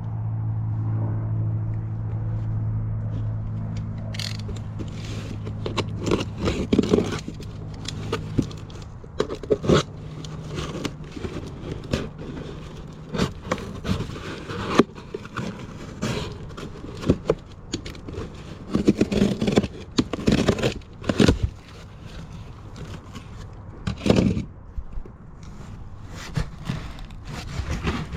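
Objects being rummaged through and handled: irregular clattering, scraping and crinkling knocks. There is a steady low hum for the first several seconds, which fades out.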